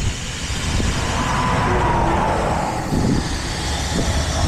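Heavy truck engine running steadily with a low rumble, and a faint thin whine for a couple of seconds in the middle.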